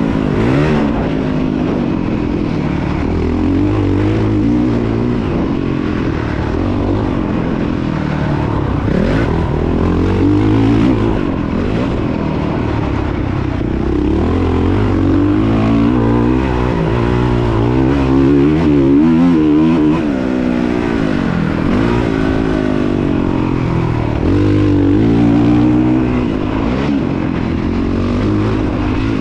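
Motocross dirt bike engine racing on a track, revving up and backing off again and again as it accelerates, shifts and slows for turns.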